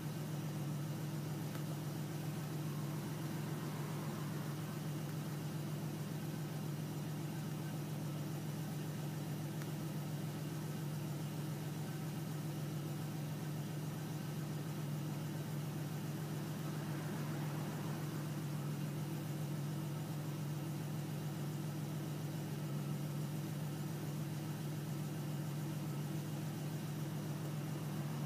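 1989 Chevrolet Beretta's 2.8-litre V6 idling steadily in park, a smooth even running sound that the owner calls excellent running.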